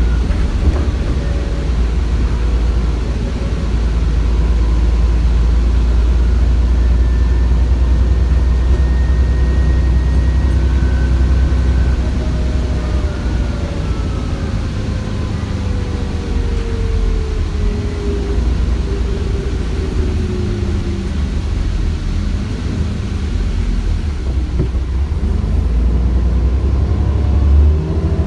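ADL Enviro400 double-decker bus's Cummins ISBe 6.7-litre diesel engine and Voith automatic gearbox running on the move: a steady low rumble with a turbo whine over it. Through the middle a whine slides slowly down in pitch, and rising tones come back near the end.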